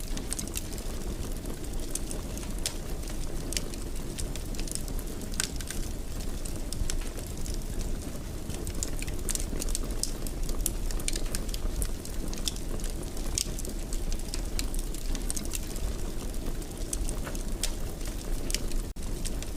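Wood fire burning in a fireplace: a steady low rumble with frequent small crackles and pops at irregular intervals.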